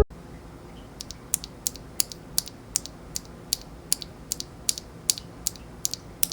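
Keys being pressed on an Anne Pro 2 60% mechanical keyboard fitted with Gateron Speed Silver linear switches: a string of sharp, irregular clicks, about three or four a second, starting about a second in.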